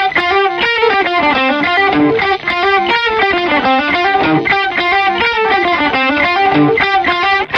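Electric guitar with distortion playing a fast riff of single picked notes that climb and fall in pitch.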